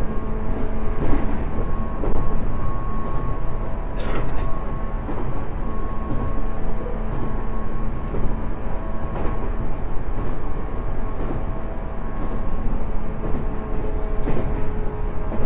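A 107 series electric multiple unit running at speed: a steady rumble of wheels on rail with a steady hum of several tones. Faint rail-joint clacks come every few seconds, and a short sharp sound is heard about four seconds in.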